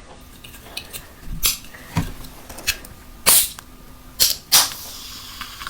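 Close-miked mukbang eating sounds of a person eating mutton mandi: about half a dozen sharp, wet mouth smacks and chewing clicks over a steady faint background noise.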